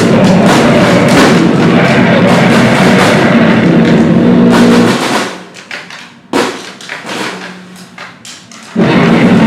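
Live noise-grind improvisation: a wall of distorted noise with pounding drums. It breaks off about five seconds in to a few scattered hits, then slams back in at full volume just before the end.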